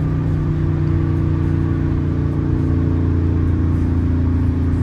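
Straight-piped, catless Dodge R/T V8 droning steadily while cruising at an even speed, heard from inside the cabin.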